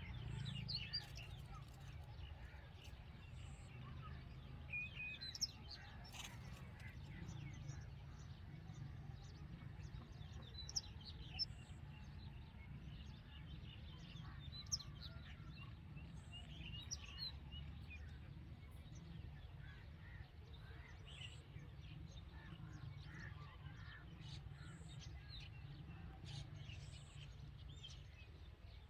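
Red-vented bulbuls chirping at the nest: scattered short, high chirps, a few sharper and louder than the rest, over a steady low rumble.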